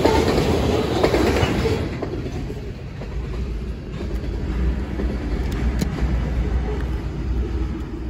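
Tank cars of a freight train rolling past over a grade crossing, wheels running on the rails. It is loud for the first couple of seconds, then settles to a quieter, lower rumble.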